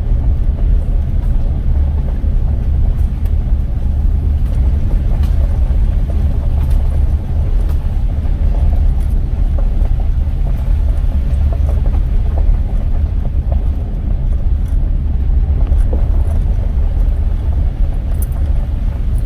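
Car driving at a steady pace, heard from inside the cabin: a constant low rumble of road and engine noise, with a few faint ticks.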